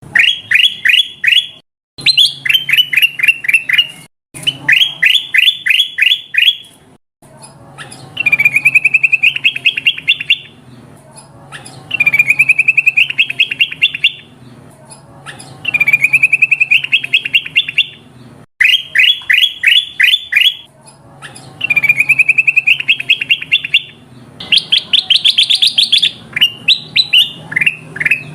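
Kutilang emas bulbul calls played as a bird-lure recording: rapid runs of high chirps in bursts of about two seconds, repeating with short gaps, over a faint low hum.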